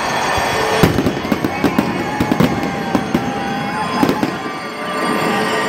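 Aerial fireworks going off overhead: a sharp bang about a second in, then a rapid run of crackling pops that thins out after about four seconds.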